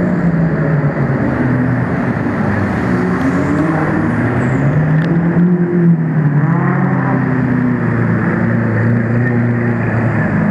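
Several sports cars' engines running at low speed as they roll past one after another, the engine notes rising and falling, among them a Lamborghini Huracán, a Lamborghini Aventador and an Aston Martin Vantage.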